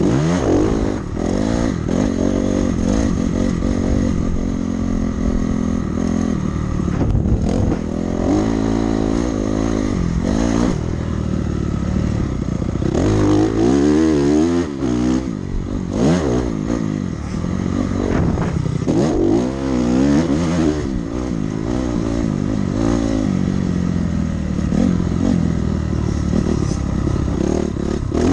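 Dirt bike engine revving hard and easing off again and again, its pitch climbing and dropping as it works through the throttle and gears around a motocross track.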